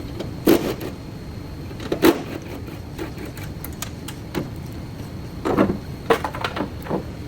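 Knocks and clatter from hands-on repair work on a car body: a sharp strike about half a second in, another about two seconds in, and a quick run of knocks near the end, over a steady low background noise.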